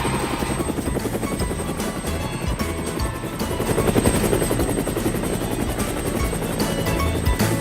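A cartoon vehicle sound effect: a fast, steady chopping whirr like a helicopter's rotor, over cheerful background music.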